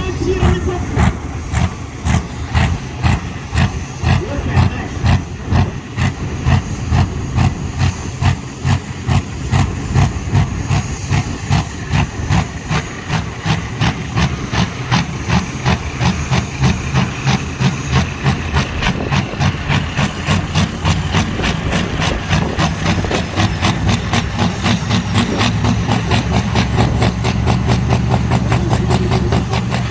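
Big engine of a competition pulling tractor idling with a heavy, lumpy beat, about two pulses a second. Near the end the running becomes louder and smoother as the engine picks up.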